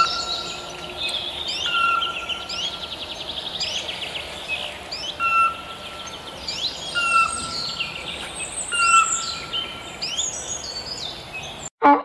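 Several wild birds calling: a steady whistled note repeated about every two seconds, under many quick high chirps and trills. It all cuts off abruptly near the end.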